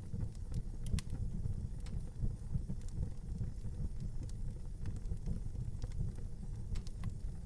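Outdoor wood fire burning, with a steady low rumble and scattered sharp crackles and pops, a couple of them clearer about a second in and near the end.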